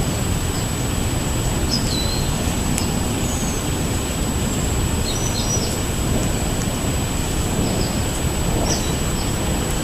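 Steady low rumble with a few short, high bird chirps scattered through it.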